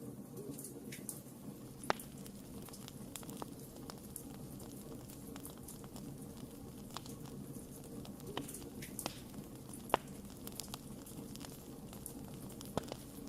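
Wood fire burning with a steady low rush and irregular crackles and pops, the sharpest about two seconds in, near ten seconds and near the end.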